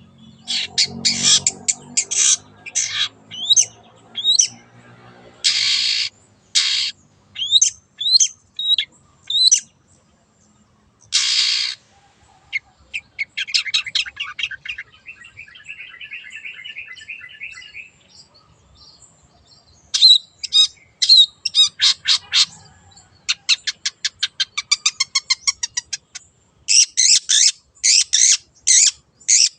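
Long-tailed shrike (cendet) singing a varied song: harsh rasping notes, short gliding whistles, and runs of fast trilling chatter, with brief pauses between phrases.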